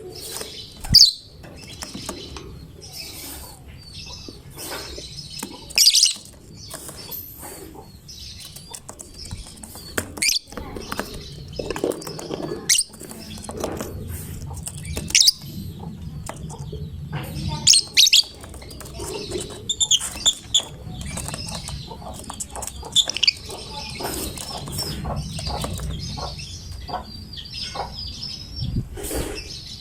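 Lovebird chirping continuously, broken by repeated loud, sharp shrieking calls, several of which sweep quickly upward in pitch.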